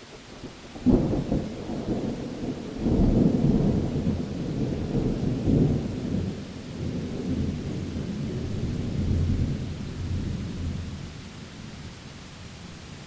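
A thunderclap in steady rain: a sharp crack about a second in, then a heavier rolling rumble from about three seconds that slowly dies away.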